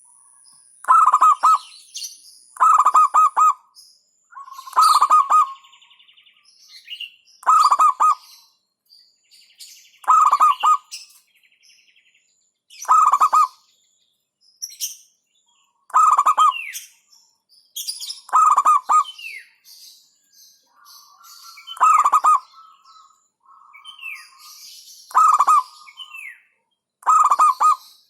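Zebra dove (perkutut) cooing: a short, rippling staccato coo phrase repeated about every two to three seconds. Fainter, higher chirps and trills of other birds come between the phrases.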